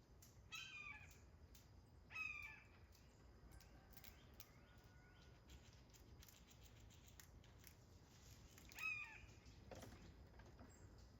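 Three short, harsh bird calls: one near the start, another about two seconds in and a last one near the end.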